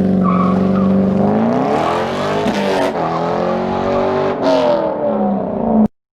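Corvette C5 Z06's LS6 V8 accelerating hard, its pitch climbing with two brief breaks that fit gear shifts, then cutting off abruptly near the end.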